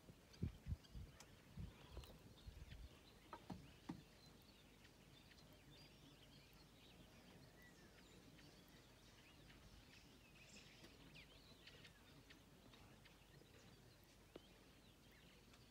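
Near silence outdoors: faint, scattered bird chirps over a low hiss, with a few soft low thumps in the first four seconds.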